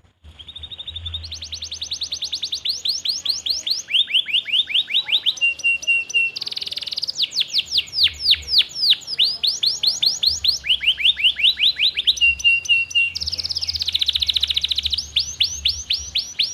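Domestic canary singing a long, unbroken song of fast rolling trills and rapidly repeated downward-sweeping notes, switching to a new phrase every second or two.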